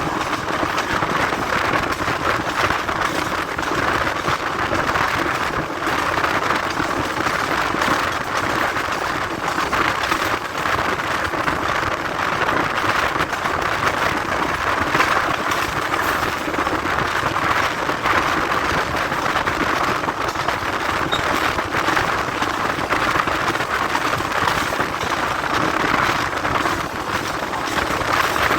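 Passenger express train running along the track: a steady, even noise of wheels and carriage.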